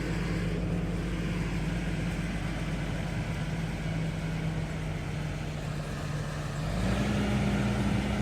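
Challenger MT665D tractor's diesel engine running steadily, then picking up revs and getting louder about seven seconds in.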